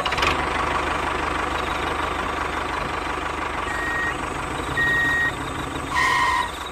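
A vehicle engine running steadily with a low rhythmic rumble. Short high beeps sound around the middle, and a louder two-tone beep comes near the end.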